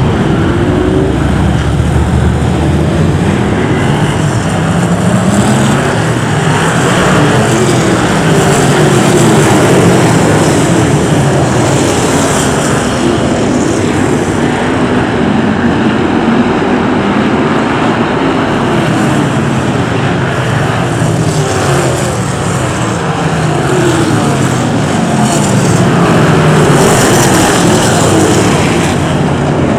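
A field of BriSCA F1 stock cars racing with their V8 engines, several cars at once, the engine pitch rising and falling again and again as they accelerate and back off.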